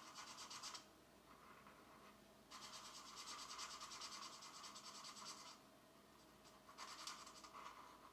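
Pencil colouring on a coloring-book page, shading in quick back-and-forth strokes, faint and in several spells, the longest lasting about three seconds in the middle.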